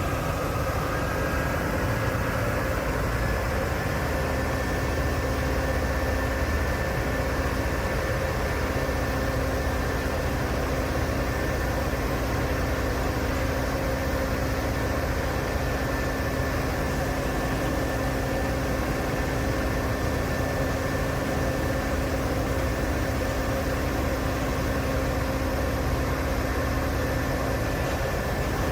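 Morbark 6400 XT wood grinder running steadily as it grinds logs into chips: a continuous low engine drone with a steady high whine over it.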